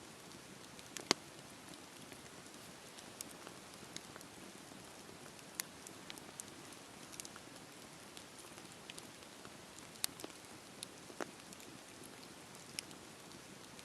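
Campfire burning: a steady soft hiss with irregular sharp crackles and pops of the burning wood, a louder pop about a second in and a few more later on.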